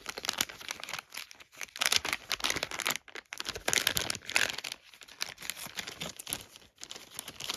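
Gift wrapping crinkling and rustling as a small item is handled and unwrapped, in irregular crackly bouts that are busiest about two and four seconds in.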